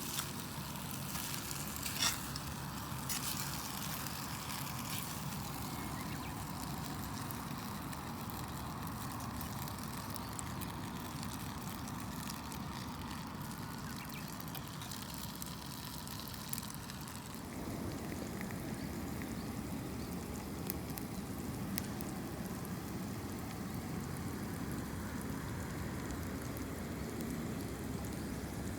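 Food cooking over a wood campfire: a steady sizzling hiss with a few sharp crackles and pops from the fire. The sizzle grows fuller about two-thirds of the way through.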